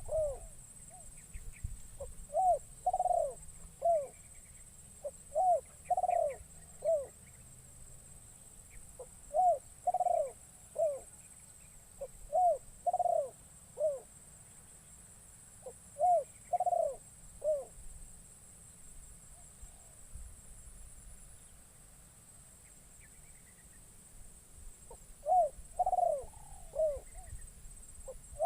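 Spotted dove (terkukur) cooing: phrases of three or four short low notes, repeated every three to four seconds, with a pause of several seconds before the last two phrases. It is a decoy bird calling to lure wild doves.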